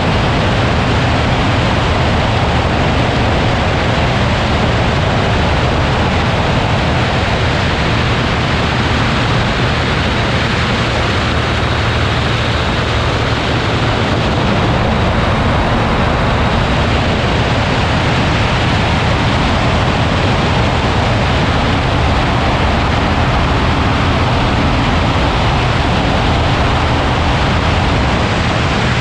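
Ultralight aircraft in flight: its engine runs steadily under a constant rush of wind noise, with no change in pitch or level.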